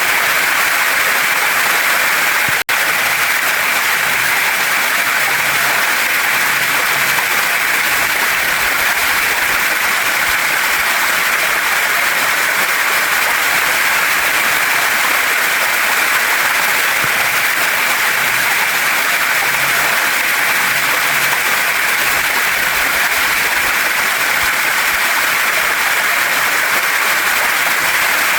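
Waterfall and stream water rushing steadily over rocks: a dense, even hiss, strongest in the upper middle. The sound cuts out for a split second about two and a half seconds in.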